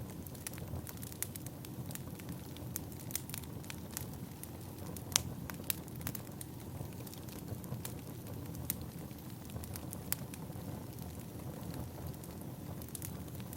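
Firewood burning: a steady low rush with scattered sharp crackles and pops, the loudest about five seconds in.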